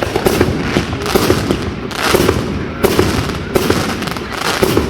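Fireworks going off in a rapid run of sharp bangs and crackles, with a fresh burst of crackling about every second.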